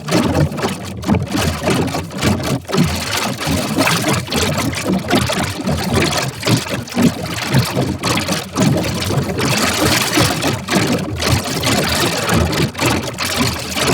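Cartoon intro theme song pushed through heavy audio-effect distortion until it becomes a loud, harsh, buzzing noise with no clear tune.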